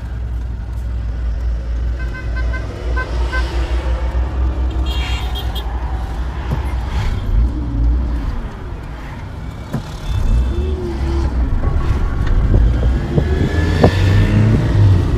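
Car traffic on the road: a steady low engine and road rumble, with a few short horn toots about two to three seconds in.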